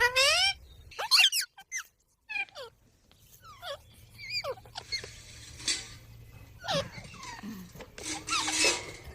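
A pet green parrot calling in a string of short, high-pitched squawks, some rising and some falling in pitch, with short pauses between them and a longer call near the end.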